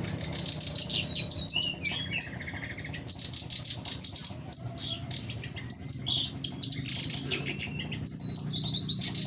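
Many caged songbirds chirping and trilling together, a dense, unbroken run of short high calls from several birds at once.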